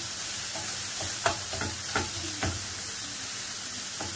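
Chopped sausage, onion, leek and mushrooms sizzling in a frying pan as they are stirred with a wooden spoon. The spoon knocks against the pan several times in the first half.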